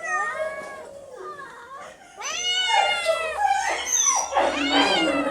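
Cats meowing: a few drawn-out calls at first, then from about two seconds in several cats crying at once, louder and overlapping.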